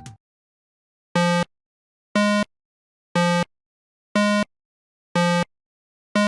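Six short electronic beeps at the same pitch, evenly spaced about one a second, with silence between them, like a countdown timer.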